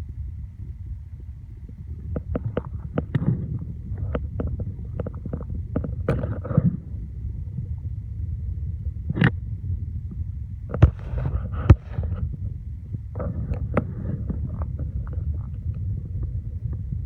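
Car on the move, heard from inside: a steady low road rumble with frequent knocks and rattles, and two sharper knocks about two-thirds of the way through.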